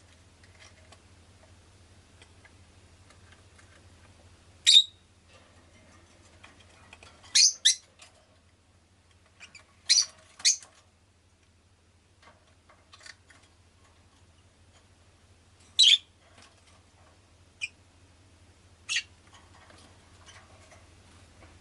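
Rosy-faced lovebird giving short, sharp, high chirps, singly and in quick pairs, about nine across the stretch, over a faint steady low hum.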